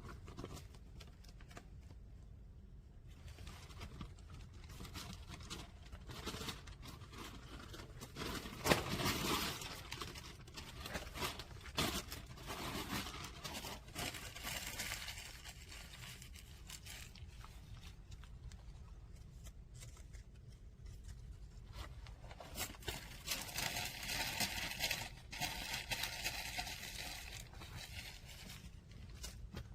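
Irregular rustling, crinkling and scraping with scattered small snaps and clicks, from paper and kindling being handled while a wood fire is laid and lit.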